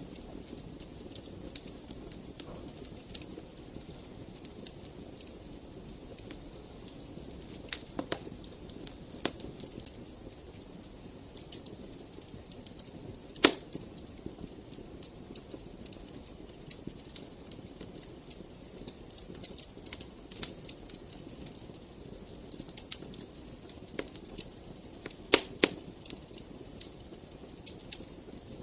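Fire in a fireplace crackling: a soft, steady rush of flames with frequent small snaps and pops, one sharp louder pop about halfway through and a quick run of pops near the end.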